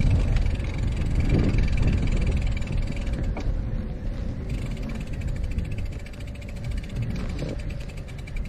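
Wind buffeting the microphone of a moving bicycle rider, a heavy low rumble with a faint steady hum above it.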